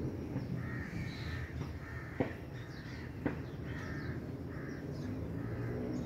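Birds calling, a run of short repeated calls, with two sharp clicks about two and three seconds in, over a low steady background rumble.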